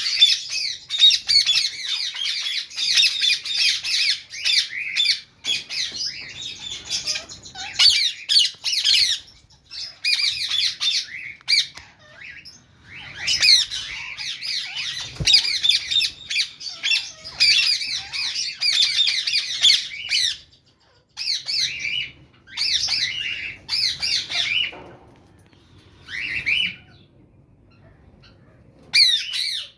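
Lovebirds calling: a busy stream of rapid, shrill squawks and chirps, with a brief lull about twelve seconds in, then thinning to separate short bursts in the last third.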